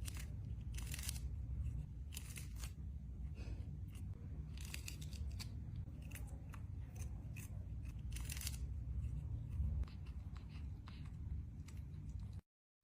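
Irregular sharp clicks and short crunchy snips, a few a second, over a low steady rumble.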